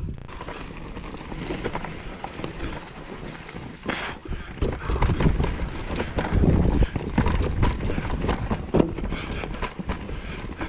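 Whyte E180S electric mountain bike riding over a rough woodland trail: tyre rumble with a stream of knocks and rattles over bumps, and wind buffeting the microphone.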